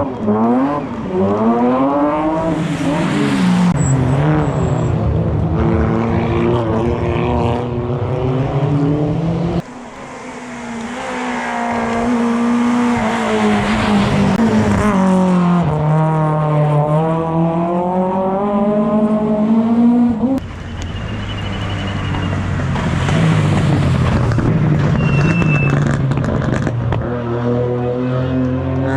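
Race car engines revving hard through the gears as cars accelerate up a hill climb, the pitch climbing and dropping back with each gear change. The sound changes suddenly about ten and twenty seconds in, as one car gives way to the next.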